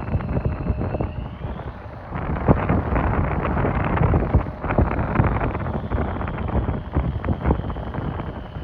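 Jet aircraft engine noise, a loud rumble with a ragged crackle, mixed with wind buffeting the microphone. A faint high whine rises about a second in and falls near the end.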